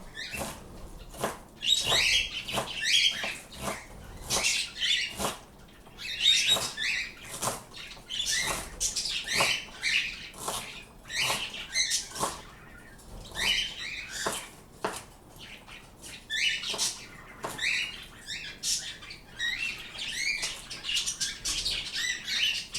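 Pet birds chirping and calling over and over in short, high-pitched bursts.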